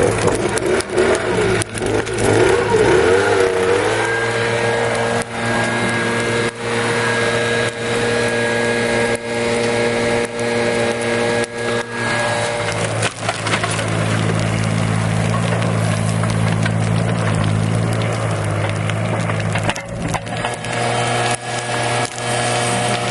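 Large wood bonfire crackling and popping with many sharp cracks, over a steady low hum of several held tones that shifts pitch a few times.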